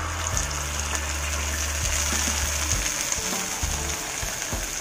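Tomato puree hitting hot oil and onions in a frying pan, sizzling steadily, with background music underneath.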